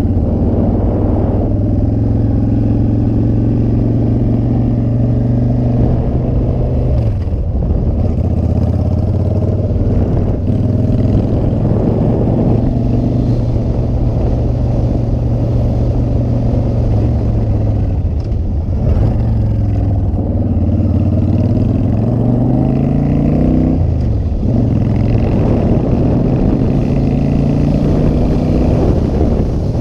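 Motorcycle engine running under way. Its note holds steady, drops suddenly about seven seconds in, sags and then climbs slowly, and drops suddenly again about three-quarters of the way through.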